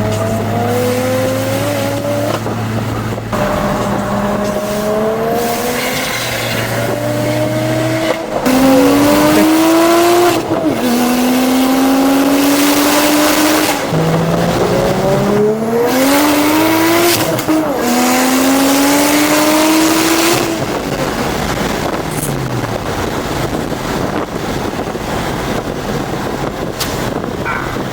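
Single-turbo BMW 335i inline-six accelerating hard. Its pitch climbs and drops back at each gear change, about seven times over roughly twenty seconds, then settles into a steadier noise.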